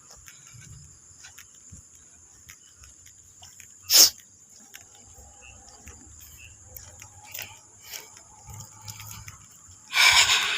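Night insects, crickets, chirping in a steady high drone, broken by a short, sharp noise about four seconds in and a louder rasping burst near the end.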